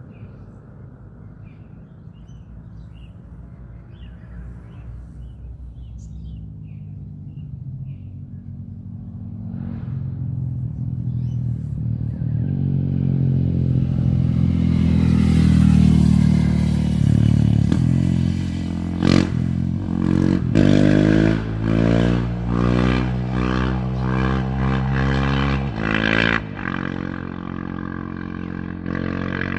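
Dirt bike engine, faint at first and growing loud as it comes close under throttle. In the second half it is revved in a series of rising surges, then drops back suddenly near the end.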